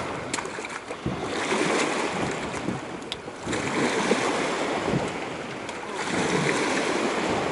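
Gusty wind buffeting the microphone over small waves lapping at the shore, with a short sharp tick about three seconds in.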